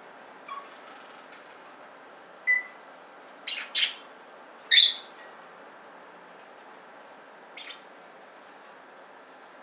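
Budgies giving about half a dozen short, sharp chirps, the loudest just before five seconds in, over a steady background hiss.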